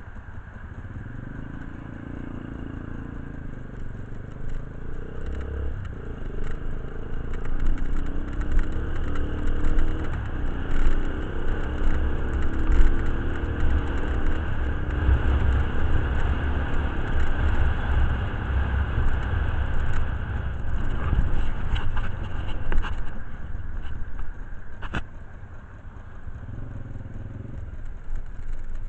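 Motorcycle engine running, its pitch rising and falling as it is revved several times, then settling back toward idle near the end.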